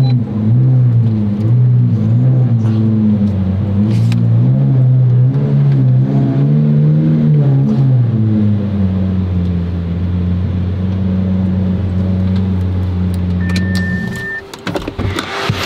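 Car engine running, its pitch rising and falling for several seconds, then holding a steady idle before it is switched off about fourteen seconds in. A short high beep sounds just before the engine stops.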